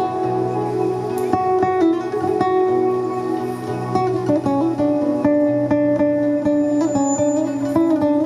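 Acoustic music on a plucked string instrument, guitar-like, picked in quick notes over steadily held lower tones.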